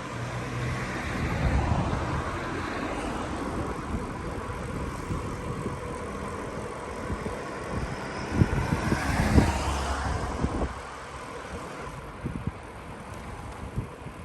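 A motor vehicle passing on the road, its noise swelling and sweeping in pitch as it goes by and fading about three-quarters of the way through, over a steady rumble of wind and rolling noise. A couple of sharp knocks come near the middle.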